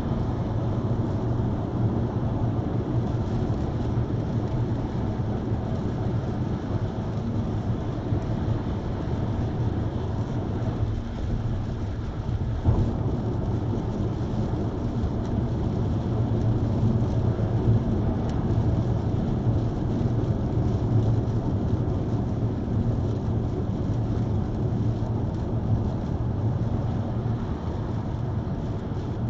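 Steady low rumble of a car driving in the rain: road and engine noise with rain.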